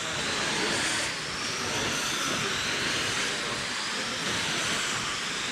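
A pack of 21.5-turn brushless electric RC dirt oval cars racing, a steady hissing rush with high motor whines slowly rising and falling in pitch as they circle the track.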